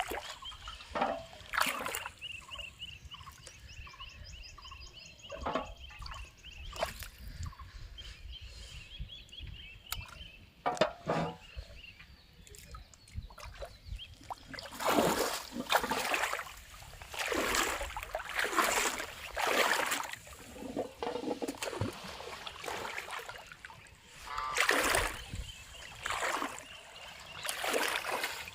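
Water splashing and sloshing in irregular bursts, sparse at first and coming thick and fast from about halfway through.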